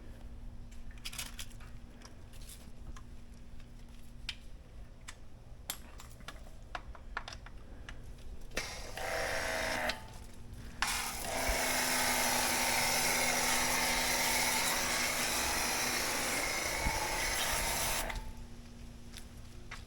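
A machine runs loudly with a steady, hissing whir for about seven seconds in the second half, after a shorter burst a little before it. Before that there are only scattered faint clicks over a low hum.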